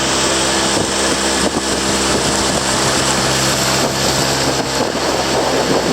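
An engine running steadily at an even speed, with wind noise on the microphone.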